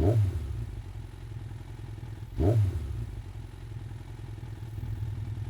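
Motorcycle engine idling, with two short throttle blips that rise and fall in pitch: one at the very start and one about two and a half seconds in.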